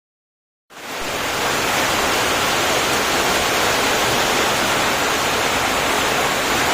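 Heavy downpour rattling on a tin roof: a dense, steady hiss that cuts in suddenly out of dead silence about a second in.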